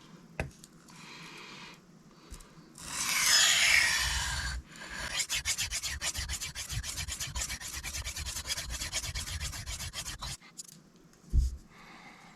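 Cold Steel Mayhem knife blade being ground on a sharpening stone, reprofiling its edge to a new angle: one long scraping stroke, then a rapid run of short back-and-forth strokes for about five seconds. A single dull knock follows near the end.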